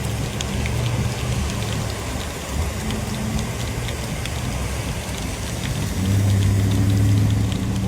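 Heavy rain falling, with a motor vehicle's engine running under it as a low steady hum that grows louder about six seconds in.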